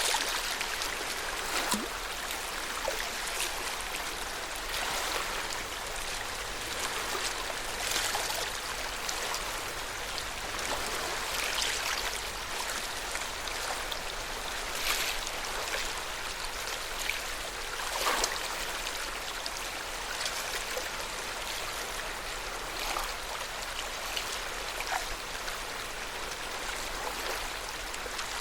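Lake water lapping, a steady watery wash broken by scattered small splashes every few seconds.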